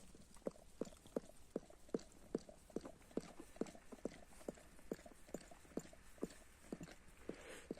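Newborn Kangal puppies suckling: a steady run of soft, wet clicks, about two and a half a second.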